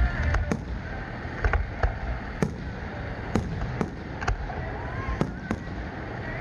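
Aerial firework shells bursting in a display: about ten sharp bangs at uneven intervals, several coming in quick pairs.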